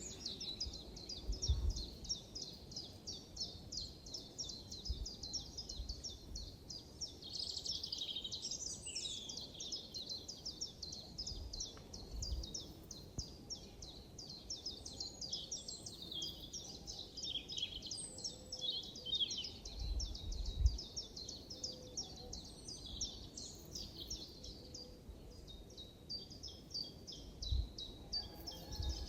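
Forest birds chirping in a rapid, continuous run of short high notes, with a few soft low thumps now and then.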